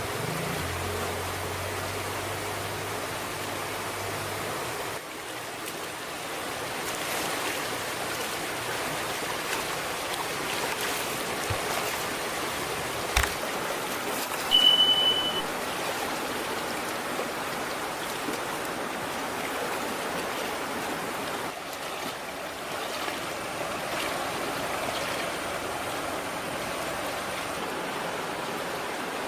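Steady rush of flowing river or stream water. About halfway through there is a sharp click, followed moments later by a brief high-pitched beep.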